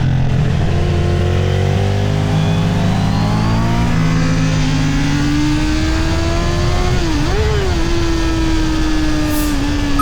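Honda CB650R's inline-four engine pulling under throttle, its revs climbing steadily for most of the stretch. About seven seconds in there is a brief dip and rise in revs, after which the revs ease slowly downward. Wind and road noise run underneath.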